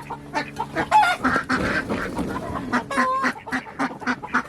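A flock of ducks calling excitedly in a pen while being rounded up, a busy run of short honking quacks, with chicken clucks mixed in.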